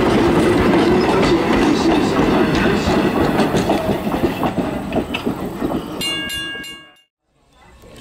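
Railway passenger coaches rolling past at a grade crossing, a steady rumble with clickety-clack of wheels over the rail joints that eases off as the last car goes by. Near the end a crossing bell rings briefly before the sound fades out.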